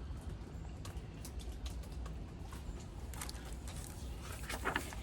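Quiet room tone: a steady low hum with a few faint clicks, and a brief faint vocal sound near the end.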